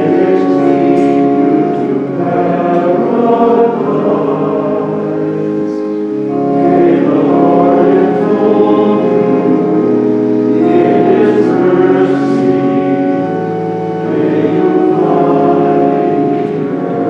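Choir singing a slow sacred hymn in long held phrases, with short breaks between phrases about six and fourteen seconds in.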